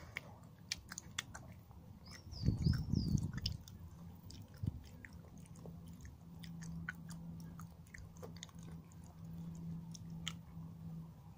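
Close-up chewing of a mouthful of chocolate Easter egg, with many small sharp mouth clicks. A brief low rumble comes about two and a half seconds in, and a steady low hum runs under the later part.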